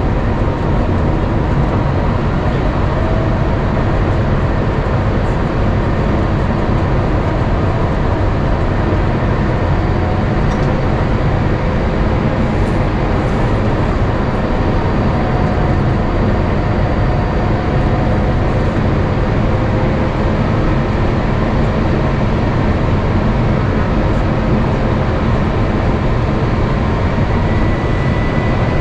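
Airbus A350-900 cabin noise on final approach: a steady, loud rush of airflow and engine rumble, with faint steady whining tones over it.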